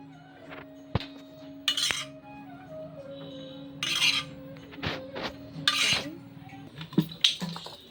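Metal spatula scraping and clinking against a kadai (Indian wok) as the cooked chow mein noodles are lifted out and served. There are three short scrapes, about two seconds apart, with sharp knocks of the utensil on the pan between them.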